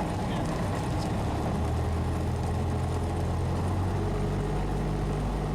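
Cessna 172SP's four-cylinder piston engine running at low power while taxiing after landing, a steady low drone heard inside the cabin, its note changing about four seconds in.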